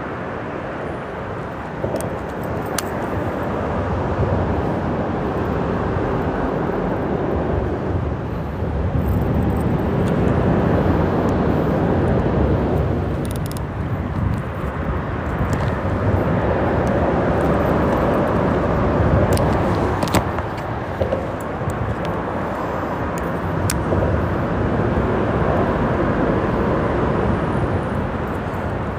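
Freeway traffic passing on the bridge overhead: a steady rush of tyres and engines that swells and fades as vehicles go by, with a few light clicks on top.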